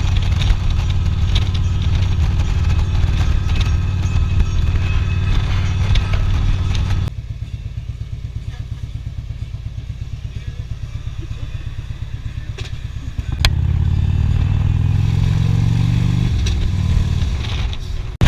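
Harley-Davidson Street Glide's Twin Cam V-twin running under way with wind noise, then about seven seconds in dropping to a quieter, evenly pulsing idle. About thirteen seconds in it comes back loud and revs up, its pitch rising as the bike accelerates.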